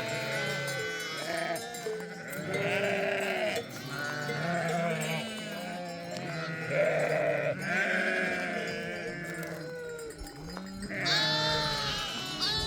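A flock of sheep bleating, many calls overlapping one another without pause, with one louder, higher call near the end.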